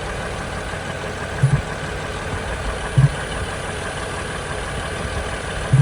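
2007 Ford Freestar 4.2-litre V6 idling steadily, with three low pops from the air box about a second and a half apart. The gurgling, popping intake noise is the sign of a failing idle air control valve.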